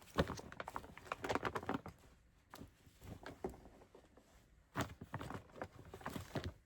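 Skeins of yarn being handled and set onto shelves: rustling with light taps and knocks, in one busy spell at the start and another about five seconds in.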